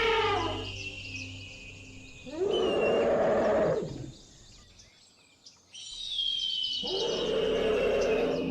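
A lion roaring in two long, rough calls, the first about two seconds in and the second starting about six seconds in.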